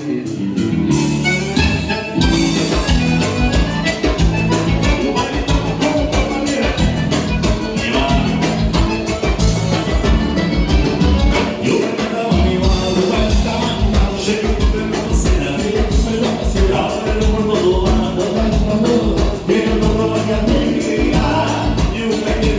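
Live gaúcho dance-band music with a steady dance beat, played without words.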